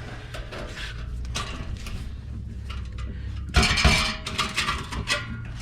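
Metal clinking and knocking as an exhaust pipe section and hand tools are handled under the car, with a louder run of knocks a little past the middle.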